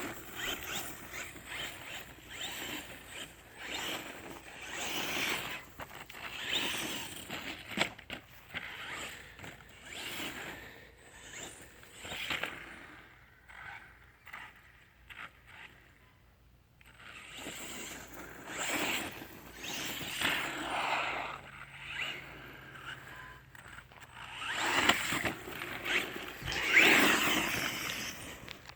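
Redcat Volcano EXP Pro electric RC monster truck driving in bursts, its motor, drivetrain and tires on the ground swelling and fading as it speeds up and comes and goes, with a quieter stretch about halfway through.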